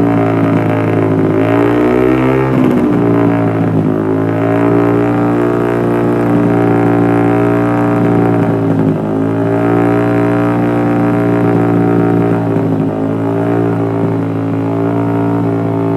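Yamaha MT-15's 155 cc single-cylinder engine held at a steady raised rev through its exhaust: a droning tone with small dips in pitch now and then, falling off right at the end as the throttle is let go.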